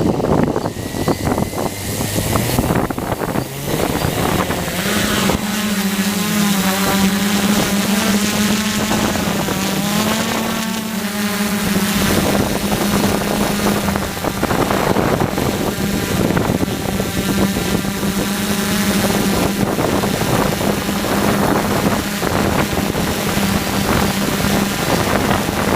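DJI F450 quadcopter's brushless motors and propellers humming in flight, with wind rushing over the microphone. The pitch climbs over the first few seconds, then holds steady with small wavers.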